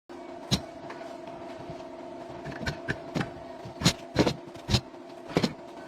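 About eight sharp knocks or taps at irregular intervals over a steady low hum.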